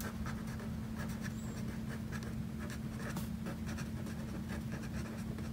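Pen writing on lined notebook paper: a run of quiet scratching strokes over a steady low hum.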